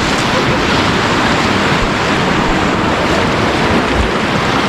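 Loud, steady rush of river water around a raft, with wind buffeting the microphone in gusts, one about four seconds in.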